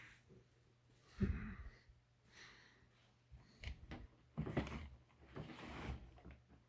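Faint scattered clunks, knocks and rustles of hands handling parts, with a low thud about a second in and a busier run of knocks and scrapes in the second half.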